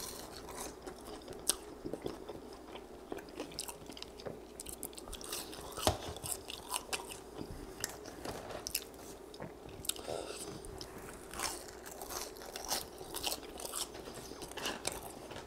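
A person chewing crispy french fries dipped in ranch, with irregular crunches throughout.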